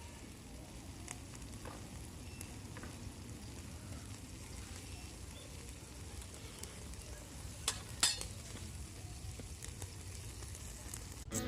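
Food sizzling steadily on a hot empty steel can used as a griddle over a small fire, with small crackles and a couple of sharp clicks about two-thirds of the way through.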